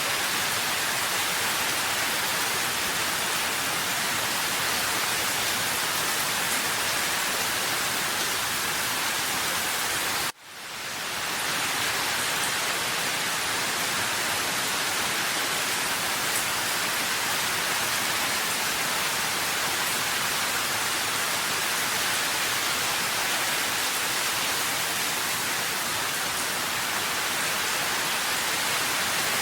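Steady, dense hiss of rain. About ten seconds in it cuts out suddenly and swells back within a second or so.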